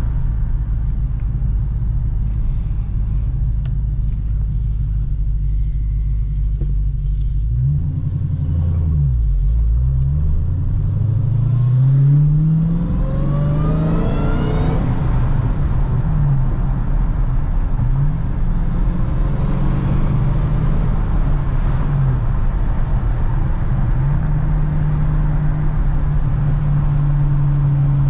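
Dodge Challenger SRT Hellcat's supercharged 6.2-litre V8 heard from inside the cabin, droning at a steady cruise. About eight seconds in the revs drop and then climb hard as the car accelerates. Several quick dips and rises follow, typical of manual gear changes, before it settles back to a steady drone near the end.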